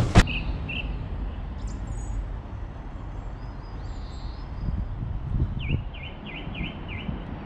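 A single sharp knock at the very start, then small birds chirping over a steady low outdoor rumble, with a run of about five quick falling chirps near the end.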